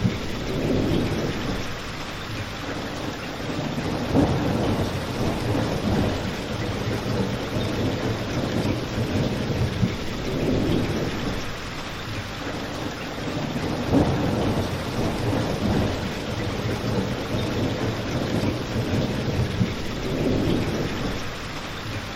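Steady rain with a low rumble that swells and fades every few seconds, and a few sharp crackles from a fireplace.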